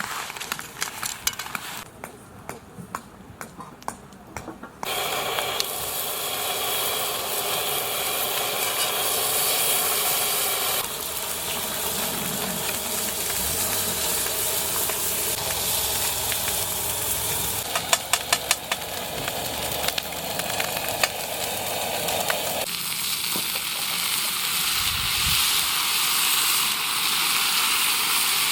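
Food sizzling in a hot frying pan after a few seconds of light taps and clicks, with utensil ticks against the pan partway through. The sizzle shifts abruptly a few times, as if between takes.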